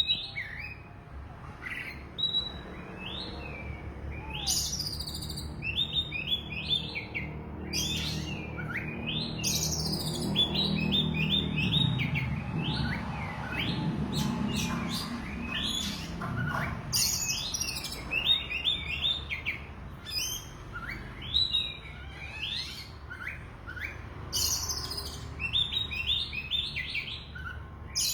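Oriental magpie-robin (kacer) singing continuously: phrases of quick, high, sharp notes repeated about every two seconds.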